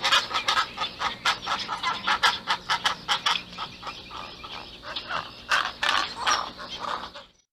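Pelicans calling, a dense run of short, sharp calls and clacks several times a second over a low steady hum.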